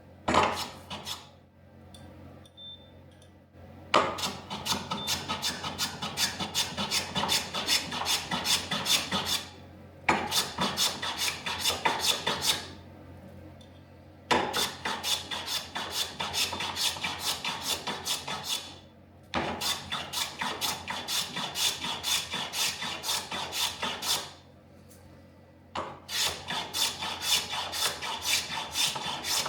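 Ebony front splice of a snooker cue being planed away by hand: runs of short, quick scraping strokes, about four a second, broken by brief pauses between runs.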